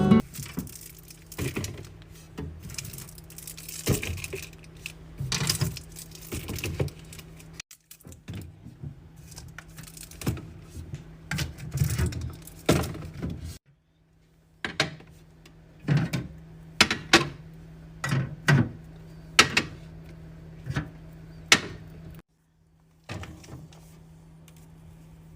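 Containers, jars and bottles being handled and set into a fridge: a run of sharp clicks, taps and clinks, some ringing briefly, with a steady low hum underneath. The sound cuts out completely for a moment three times.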